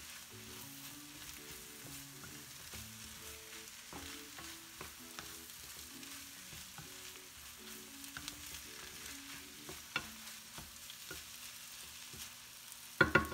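Diced potatoes sizzling as they fry in oil in a pan, with a spatula stirring and scraping now and then. A louder clatter of the spatula against the pan comes near the end.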